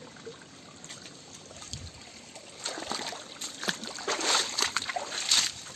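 Stream water trickling faintly, then from about halfway through a run of irregular splashing and sloshing in the shallow water.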